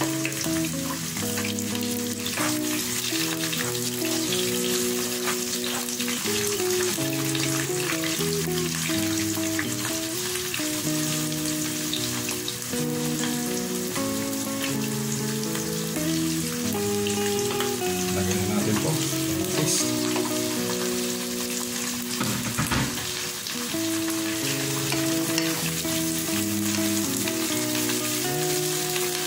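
Chopped onion and garlic sizzling in hot oil in a nonstick pan, stirred with a wooden spatula. Background music plays throughout.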